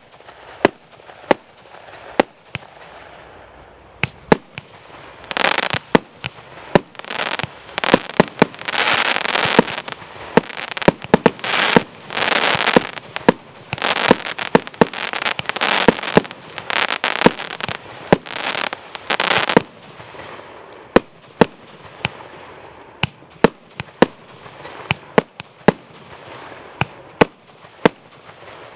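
Multi-shot firework cake (a 73-shot, 20–50 mm calibre salute battery) firing shot after shot, with sharp bangs all the way through. From about five seconds in until about twenty it fires densely, with long noisy bursts running together between the bangs. After that it thins out again to separate bangs.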